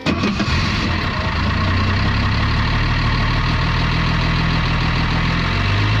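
1972 Mercedes-Benz W108 280SE's 2.8-litre straight-six catching right at the start and settling into a steady idle.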